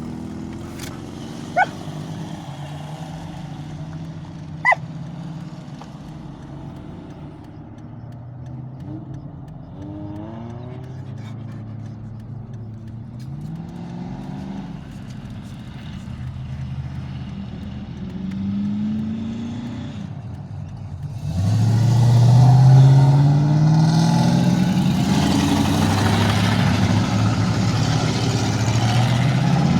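Old cars driving past in a parade, their engines running; after about 21 seconds a much louder engine accelerates past, its pitch rising. Two short sharp sounds come within the first five seconds.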